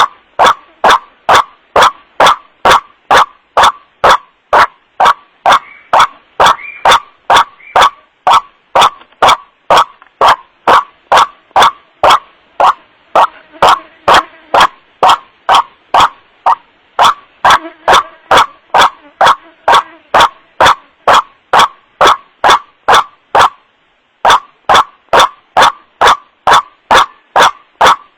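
White-breasted waterhen 'wak-wak' calls played as a lure, sharp calls repeated about twice a second, loud and distorted by clipping. The calls break off briefly near the end, then resume.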